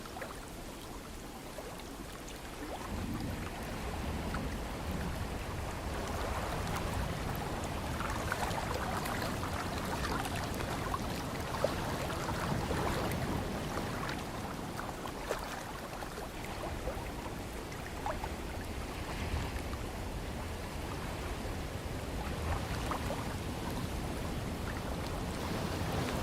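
Ocean surf: waves washing in and drawing back as a continuous rushing noise. It swells about three seconds in, stays fuller through the middle, eases, and builds again near the end.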